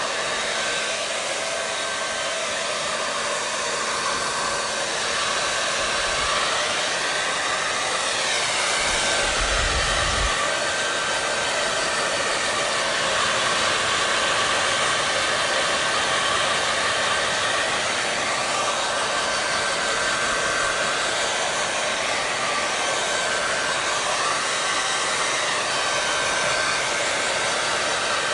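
Hair dryer running continuously: a steady rush of blown air with a faint, even motor hum.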